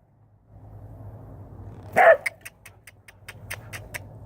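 A dog barks once, followed by a quick run of sharp clicks.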